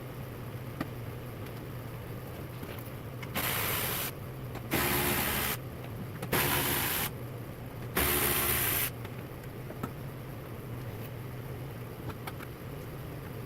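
A small motor, like a power tool's, running in four short bursts of under a second each, over a steady low hum.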